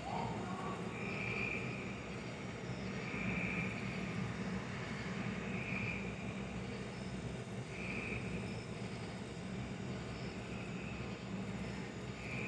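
Steady low rumble with a short high chirp that repeats about every two seconds.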